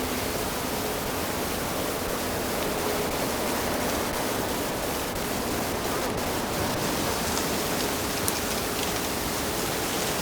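Steady rush of running water, even and unbroken, with a faint tick about eight seconds in.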